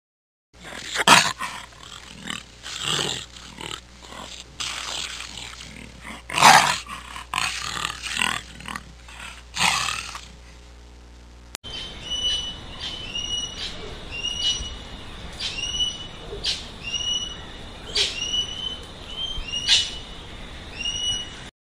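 A lion growling as it feeds on raw meat, with four loud rasping growls over about ten seconds. After a cut, a sparrow gives short high chirps, one or two a second.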